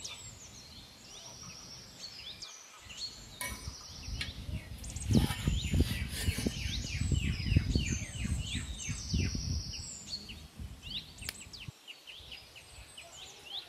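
Birds chirping and calling all through, with quick runs of short falling chirps. From about five to ten seconds in, a louder stretch of low thumps and rumble.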